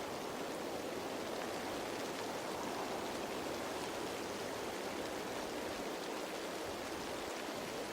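Rain falling on leaves: a steady, even rush of raindrops with no pauses.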